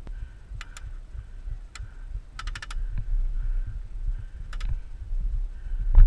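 Airsoft guns firing: scattered single sharp cracks and one short rapid burst of about five shots, with a louder thump near the end over a constant low rumble.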